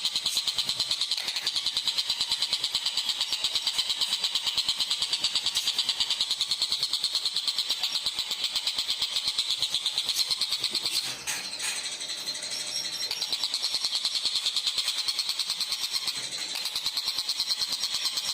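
Tengkek buto bird call used as masteran: a fast, even series of high-pitched chattering notes, about five a second, with a short break about eleven seconds in.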